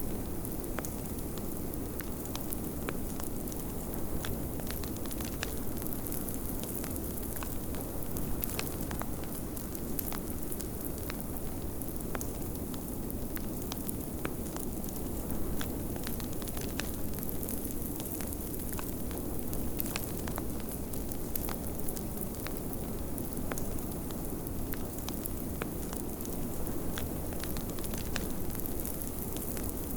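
Wood fire crackling in a fireplace, with irregular sharp pops and snaps scattered throughout. Beneath it runs a steady low rush of blizzard wind.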